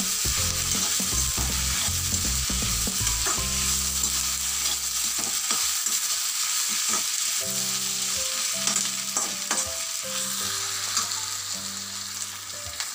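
Onions, tomato and ginger-garlic paste sizzling in hot oil in an aluminium kadai while a metal slotted spatula scrapes and knocks against the pan as they are stirred. They are being sautéed until the raw smell of the ginger-garlic paste is gone.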